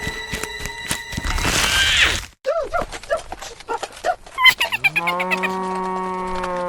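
A whoosh, then a string of short chirping blips, then a cow's long moo that starts about five seconds in and holds steady.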